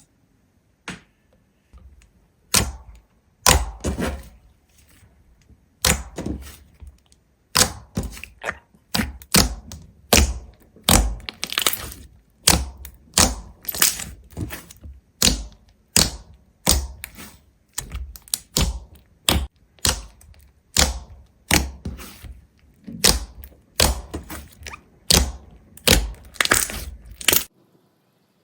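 A long, irregular series of sharp cracks and thunks, about one or two a second, like something hard being struck, snapped or broken again and again.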